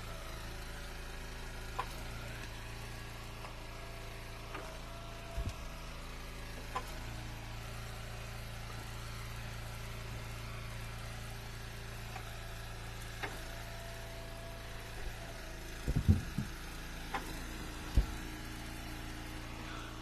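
Gas-engine hydraulic log splitter running steadily at idle, with a few scattered knocks and thuds as wood is handled, the loudest about sixteen and eighteen seconds in.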